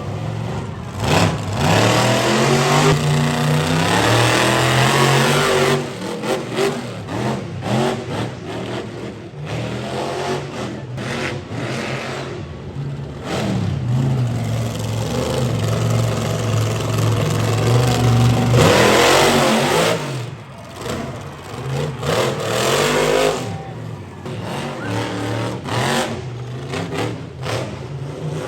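Monster truck engines revving hard, the pitch repeatedly climbing and falling, loudest in two long stretches near the start and around the middle.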